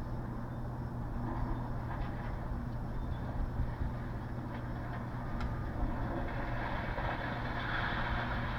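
Diesel engine of heavy demolition machinery running steadily, with a few sharp clanks around the middle.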